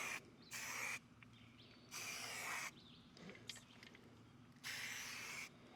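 Aerosol spray paint can hissing in short bursts, about four in a few seconds, each under a second long.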